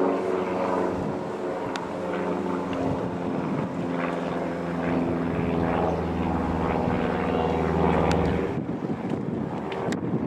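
Single-engine light aircraft passing overhead: the Robin DR.400-180's four-cylinder piston engine and propeller drone steadily, growing louder to a peak about eight seconds in, then fading.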